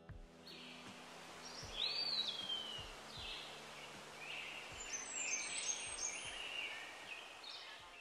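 Birds calling and chirping over a faint steady hiss, with a clear whistle that slurs downward about two seconds in and a busier patch of calls in the second half.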